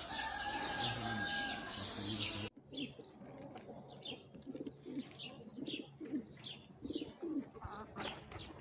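Domestic pigeons cooing in low, pulsing calls, mixed with repeated short high chirps. These start after an abrupt change about two and a half seconds in; before it there is a noisier background with a steady held tone.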